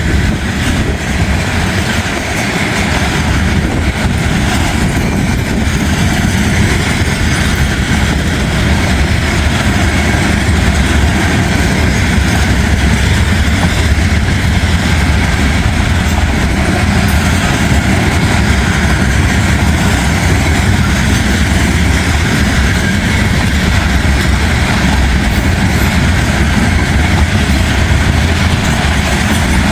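Freight train of loaded steel coil cars rolling past on the rails: a loud, steady rumble of wheels on track that carries on unbroken.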